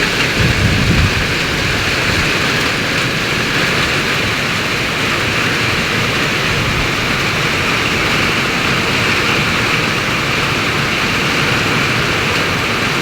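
Heavy rain falling steadily in a summer storm, an even hiss. A brief low rumble about half a second in.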